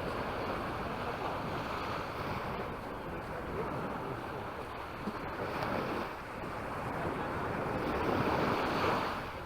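Small sea waves breaking and washing up the beach, with wind on the microphone. The surf swells twice, about five seconds in and again near the end.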